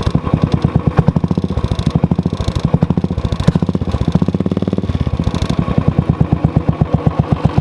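Royal Enfield Bullet's single-cylinder engine running with the bike in gear and the rear wheel turning, a steady rapid beat of exhaust pulses with a light clatter from the drive chain. The chain noise is the irritating sound the owner hears from a chain that is tight but not lubricated.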